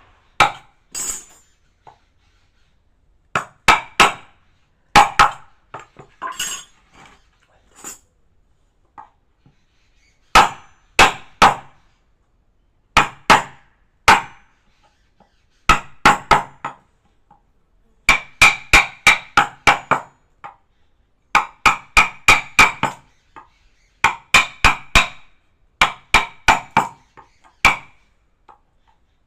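A woodcarving chisel struck repeatedly, in groups of quick taps separated by short pauses. Each tap leaves a brief ring. The strikes come fastest and most tightly bunched in the second half.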